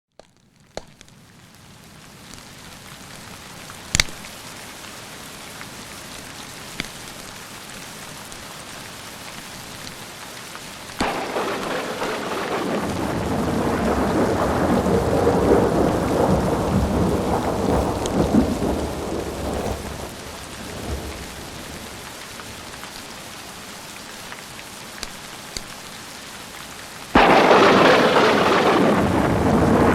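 Steady rain fading in over the first few seconds, with thunder: a long rolling rumble builds about eleven seconds in and dies away, and a sudden loud thunderclap breaks near the end and keeps rumbling. A few sharp pops, like crackles from a log fire, stand out from the rain.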